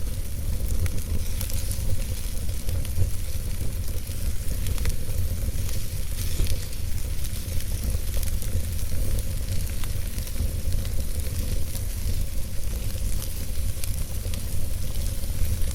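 Log fire burning in a fireplace: a steady hiss with frequent small crackles and pops over a low rumble.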